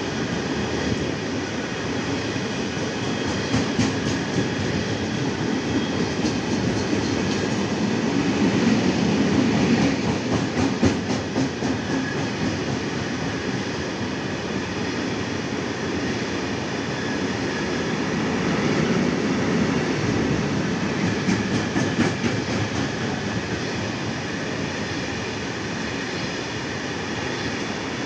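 Freight train of open-top coal wagons rolling steadily through a station, with a continuous rumble of wheels on rail and sharp clicks now and then as the wheels pass over rail joints.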